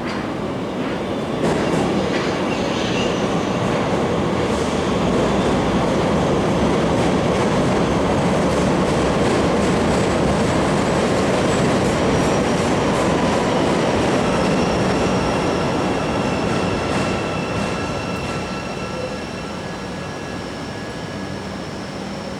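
A CTA rapid-transit train running through the station, a steady rumble of wheels on rail with clicks early on. In the second half, thin high steady squeals from wheels or brakes join in, and the rumble eases off near the end.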